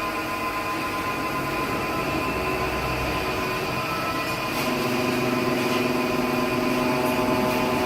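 CNC lathe running, a steady machine whine made of several held tones; a lower set of tones comes in about halfway through.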